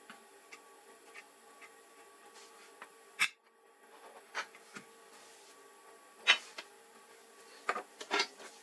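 Scattered light clicks and taps of small hard objects being handled. The sharpest click comes about three seconds in, and a small cluster of taps comes near the end, over a faint steady electrical hum.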